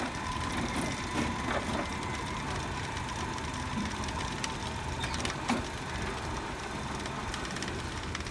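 Mini electric ride-on train running: a steady rumble with a faint whine at first and a few sharp clacks scattered through.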